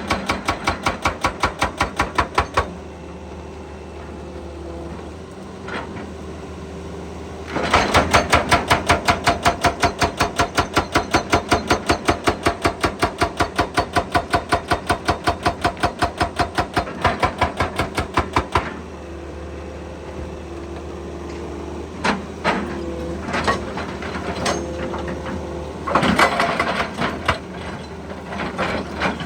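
Excavator-mounted hydraulic breaker hammering rock in two bursts of rapid, evenly spaced blows, the second lasting about ten seconds. Between and after the bursts the excavator's diesel engine runs steadily, with a few scattered clanks.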